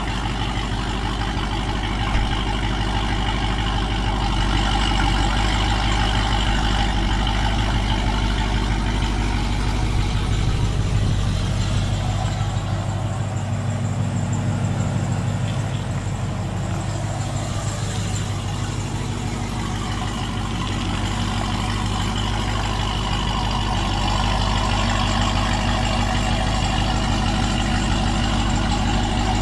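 Car engine idling with a choppy, chopping lope while being pulled in slowly, the low pulsing running steady with a slight change in the middle.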